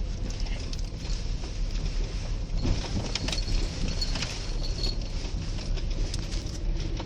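Steady low rumble of a car's tyres on an icy, bumpy road, heard from inside the cabin, with scattered small clicks and rattles.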